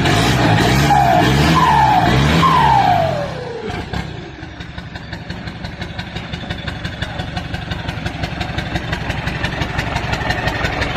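Motorcycle engine with a short open exhaust pipe and no muffler fitted, blipped three times in quick revs. About three seconds in it drops to a steady idle with a fast, even putter.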